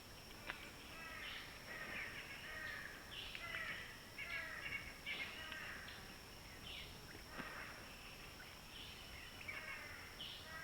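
Birds calling repeatedly, a series of short harsh calls like crow caws, over a steady faint high-pitched hum.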